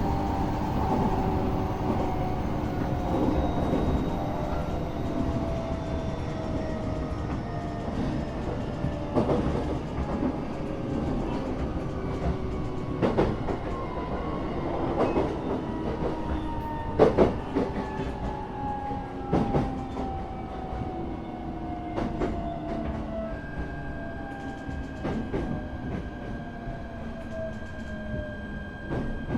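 Interior of a moving electric commuter train: steady rumble of wheels on rail with scattered clacks and knocks from the track, the loudest cluster a little past halfway. Motor whine tones slowly fall in pitch, and a steady higher tone comes in about two-thirds of the way through.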